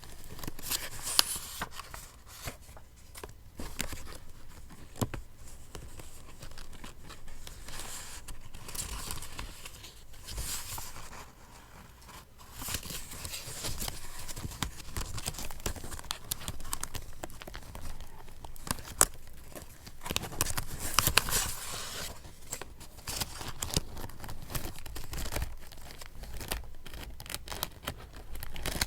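Paper being handled and torn for a collage journal, in irregular rustling bursts with short pauses and occasional sharp clicks.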